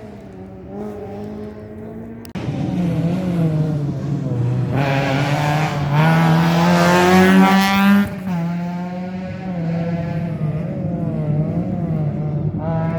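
Historic rally car engine revving hard on a rally stage, revs rising and falling through gear changes. The sound jumps louder about two seconds in, is loudest as the car passes close between about five and eight seconds, then the revs drop abruptly and climb again.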